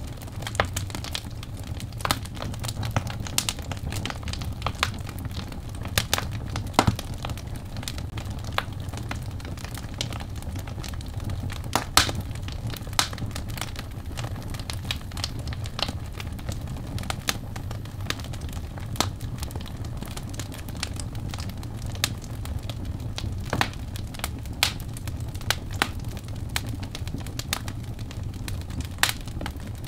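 Wood fire crackling in a fireplace: irregular sharp pops and snaps, a few several times a second, over a steady low rumble of the flames.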